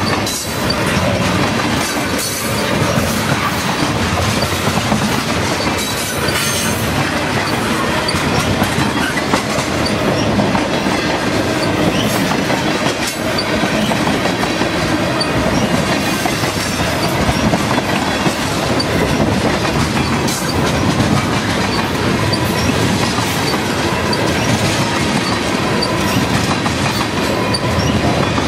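Tank cars of a long freight train rolling past close by: a steady rumble of steel wheels on rail, with the clickety-clack of wheels passing over rail joints.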